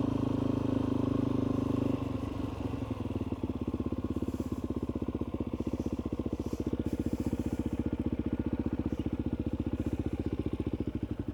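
Suzuki DR-Z400E single-cylinder four-stroke dirt bike engine running steadily, then dropping to idle about two seconds in, with an even pulsing beat.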